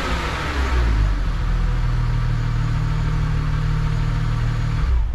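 Supercharged 3.2-litre V6 of a Chrysler Crossfire SRT-6 settling from a rev to a steady idle, the supercharger whine falling away at the start. The engine sound stops abruptly just before the end.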